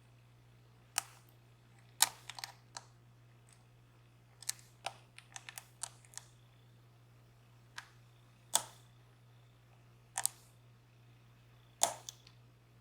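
Sharp, irregular metallic clicks and ticks of a lock pick working the pins in a DOM Plura lock, some single and some in quick little clusters, over a faint steady low hum.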